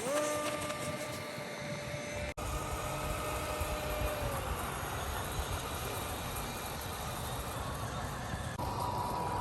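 Whine of a small electric RC model motor: it spins up quickly, holds a steady pitch for about four seconds, then fades away. A steady rushing noise runs underneath, and a second, higher steady whine starts near the end.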